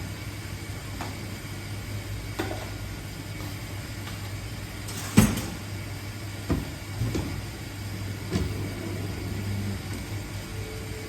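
Steady low hum with scattered knocks and clacks, the loudest about five seconds in.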